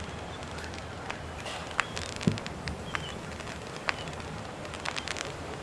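Fireworks going off: scattered sharp pops and crackles, with one deeper thump a little after two seconds in, over a steady hiss.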